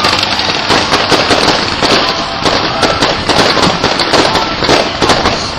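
Fireworks display: a dense, unbroken run of crackling and popping, many small bursts overlapping.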